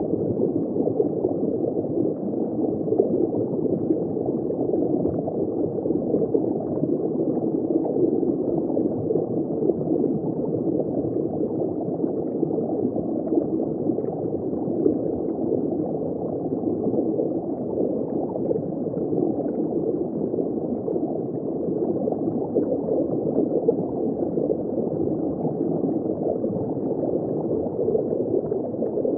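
Underwater ambience heard from just below the surface: a steady, muffled bubbling and gurgling of water, with all of the sound sitting low and dull.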